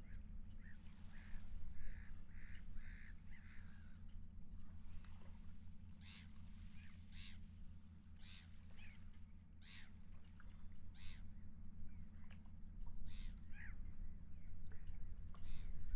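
Seagulls calling in short cries, a quick run of them early and more scattered calls later, over a steady low drone.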